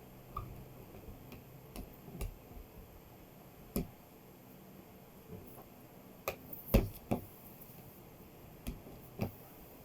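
Scattered light clicks and taps, about nine in all, with a louder close pair about seven seconds in.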